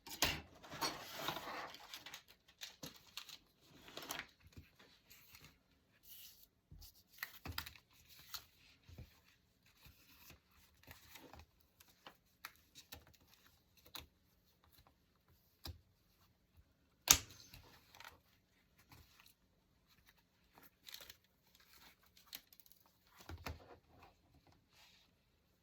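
Paper being torn and handled: a longer tearing rustle at the start, then scattered short rustles and light taps, with one sharp tap about seventeen seconds in.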